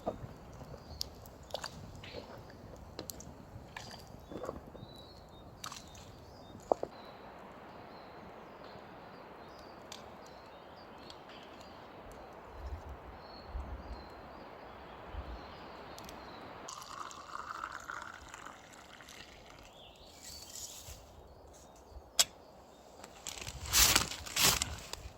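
Water running steadily for about ten seconds, after light clicks and knocks of handling. Loud crinkling crunches come near the end.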